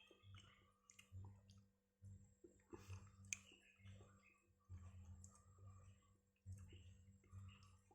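Faint, irregular clicks and small wet sounds of pudding being eaten.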